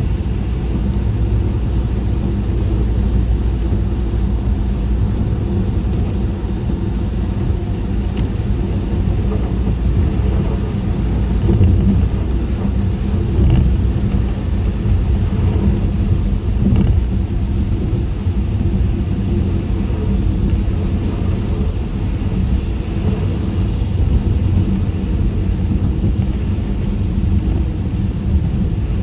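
Car driving in the rain, heard from inside the closed cabin: a steady low rumble of tyres and engine on the road.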